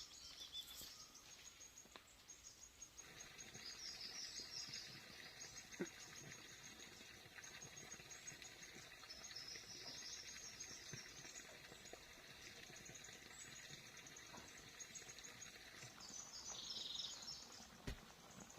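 Faint outdoor ambience: birds chirping in short, repeated high phrases over a steady background hum, with a few light knocks.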